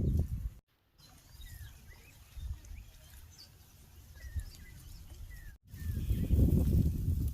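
Small birds chirping here and there in the open air, with short rising and falling chirps. Near the end a loud low rumbling noise comes in and covers them.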